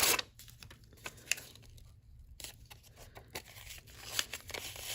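Glued-on book paper being torn back off a playing card in short rips, with the loudest rip right at the start and smaller tears and paper crackles after it.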